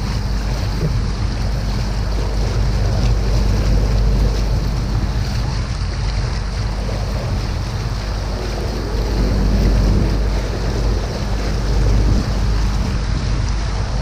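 Open canal tour boat under way, its motor running steadily with water noise, and wind rumbling on the microphone.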